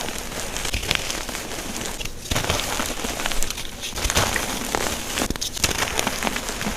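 Unpolished gym chalk blocks being crushed, a dense crunchy, crumbling crackle that comes in repeated surges about every second and a half.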